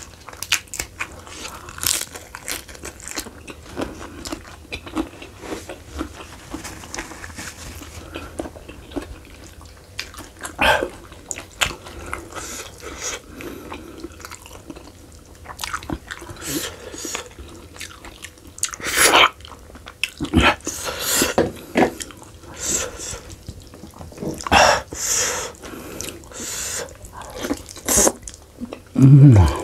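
A man eating close to the microphone: chewing and biting roasted sheep's head meat and raw leafy greens, with wet smacking and crunching. The bites get louder and more frequent in the second half.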